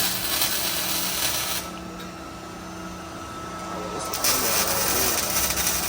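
Shop torch fed from a small gas tank hissing and crackling in two long bursts, the first stopping about a second and a half in and the second starting about four seconds in.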